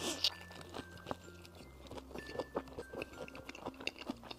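Soft background music with held, slowly changing notes, under close chewing of a mouthful of burger: many small wet clicks and crunches from the bun and fillings.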